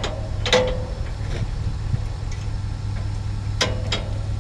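An engine running steadily at a low idle, with a few sharp clanks or knocks over it.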